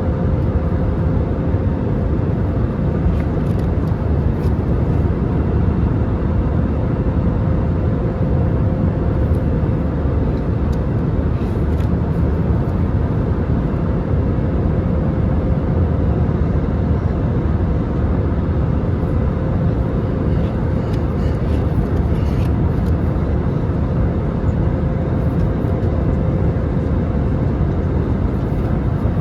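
Steady cabin noise of an Airbus A320neo airliner in flight: a continuous, even rush of engine and airflow noise with a steady hum through it.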